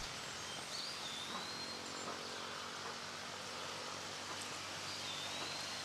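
Steady outdoor background hiss with two faint, high, gliding whistled calls, one about a second in and one near the end.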